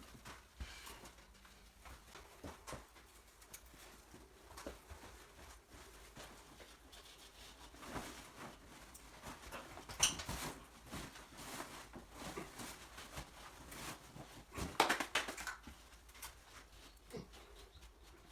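Faint scattered clicks and light knocks, like small objects being handled, with a louder cluster of taps about ten seconds in and again around fifteen seconds in.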